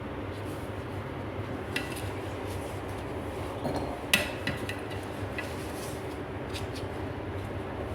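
Kitchen utensils handled while cucumber is cut up: a few scattered light knocks and clinks, the loudest about four seconds in, over a steady low hum.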